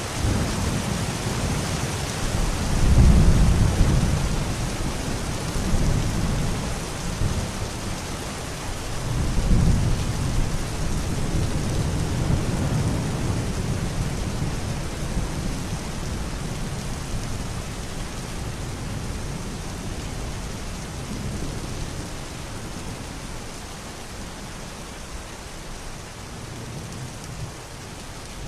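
Steady rain with rolling thunder, its deep rumbles swelling about three seconds in and again around ten seconds, then dying away to the rain alone.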